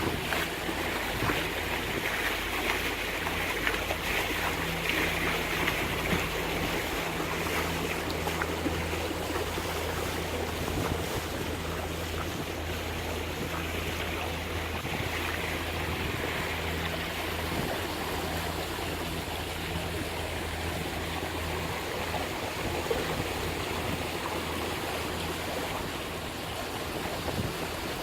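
Water rushing and splashing past a motoring catamaran's hulls, over the steady low drone of its diesel engines.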